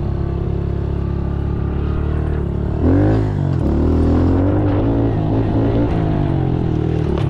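Pit bike engine running at a steady light throttle, then revved hard about three seconds in, its pitch rising and then falling back as the throttle eases.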